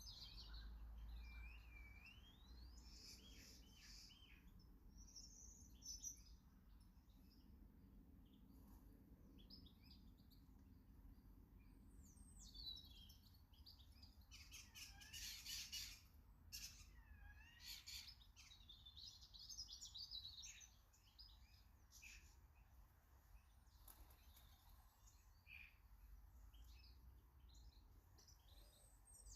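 Small garden birds calling and singing faintly: a run of chirps and short gliding, twittering phrases, with a denser cluster of calls about halfway through, over a low background rumble.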